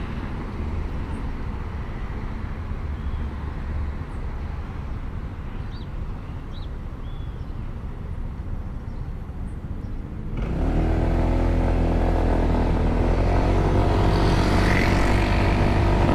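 Honda SH150i scooter on the move: a low engine rumble mixed with wind noise. About ten seconds in it jumps louder, with a steady engine hum of several tones.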